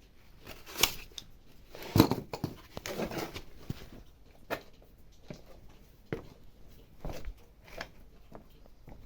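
Irregular clicks and knocks of tools and parts being handled, with the loudest knock about two seconds in and a brief rustle just after.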